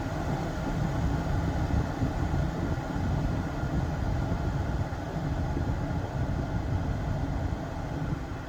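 Climate-control blower of a 1997 Mercedes-Benz SL600 running steadily, air rushing through the cabin vents, with the automatic system just set to maximum heat.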